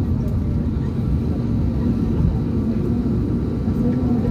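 Steady low rumble of an airliner's engines and airframe heard inside the passenger cabin, on the ground after landing, with a faint steady hum running through it.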